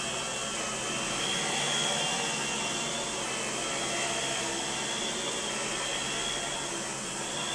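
Central vacuum system running steadily: a rush of suction with a high whine that wavers slightly in pitch.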